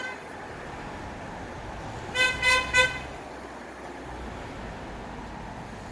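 Three quick toots of a vehicle horn, each a short steady note, over a steady background hiss.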